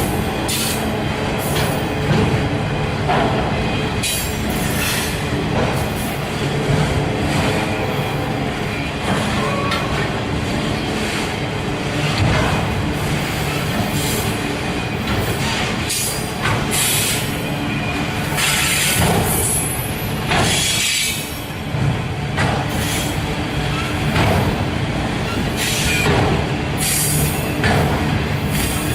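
Freight train rolling past, its cars' steel wheels clattering over the rails, with high-pitched squeals coming and going.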